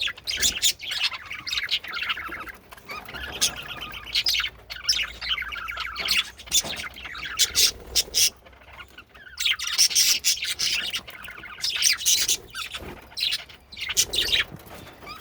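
Male budgerigars chattering and warbling, with sharp chirps and squawks mixed in.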